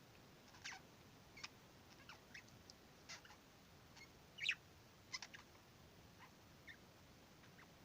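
Budgerigar making soft, sparse chirps and clicks with short gaps between them, the loudest about four and a half seconds in.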